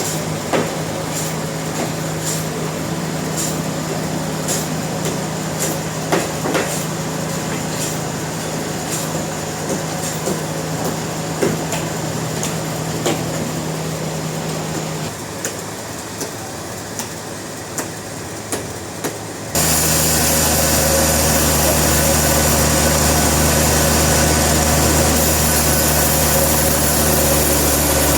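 Sawmill machinery running with a steady hum and frequent sharp knocks and clatter. The hum drops away and it goes quieter for a few seconds. Then a louder, steady engine hum cuts in suddenly.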